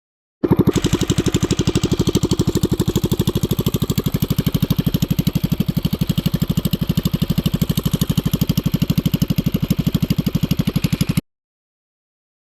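Axis M200 minibike's 196cc single-cylinder engine with a stage 1 kit running at a steady speed, with a rapid, even exhaust pulse. It starts and stops abruptly.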